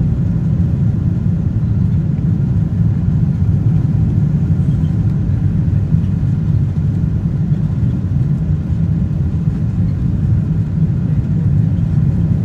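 Steady low cabin rumble of a Boeing 777-200ER heard from an economy seat, with no distinct thumps or changes.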